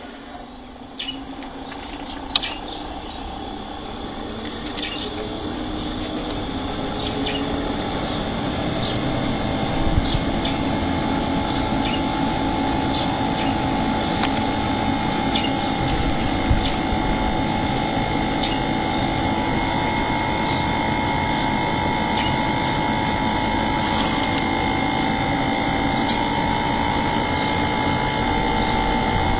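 Inverter air conditioner running up: a machine hum with steady whining tones grows louder over about ten seconds, then holds. From about twenty seconds in, a higher tone steps up and down in pitch, with a few sharp ticks along the way.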